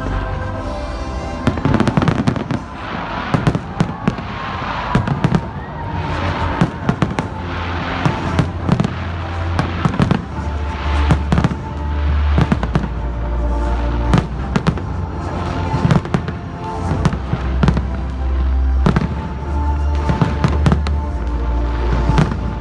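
New Year fireworks going off in rapid, irregular bangs and crackles, over loud music with a heavy bass.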